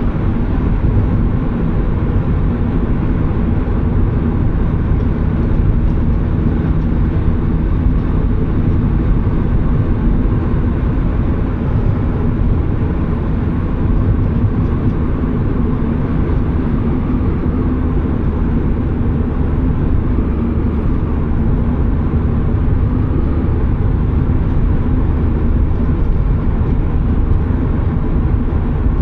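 Turbocharged Mazda Miata's four-cylinder engine running at a steady cruise, with road and tyre noise beneath it.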